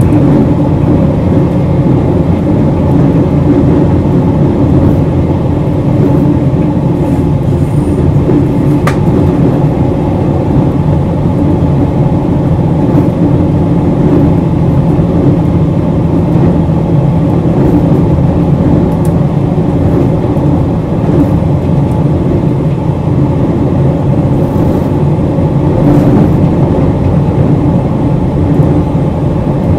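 JR Hokkaido 721-0 series electric multiple unit, a thyristor phase-controlled train, running along the line as heard from inside the car: a steady, low running noise with no change in pace. A single sharp click comes about nine seconds in.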